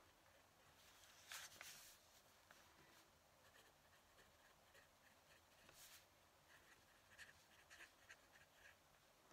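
Fountain pen nib scratching on paper, faint, in short quick strokes with two longer swishes about a second and a half in and about six seconds in.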